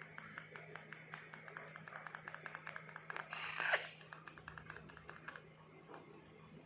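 Alexandrine parakeet chick giving one harsh call, falling in pitch, about halfway through. Under it runs a rapid series of faint clicks that stops shortly before the end.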